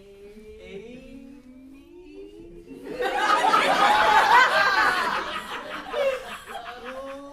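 Live audience laughing. The laughter breaks out about three seconds in, swells, then fades near the end, after a faint drawn-out vocal sound.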